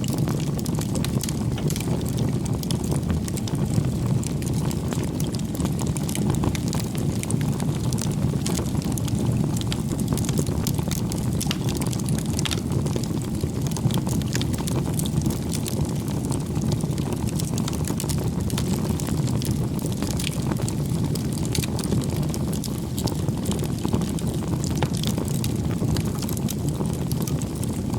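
Bonfire of firewood burning: a steady low rumble of flames with frequent small crackles and pops from the burning wood.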